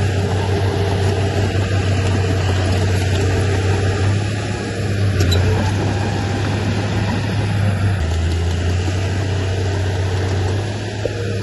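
Heavy diesel engine of earthmoving machinery running steadily, its hum dropping slightly in pitch about eight seconds in as it eases off.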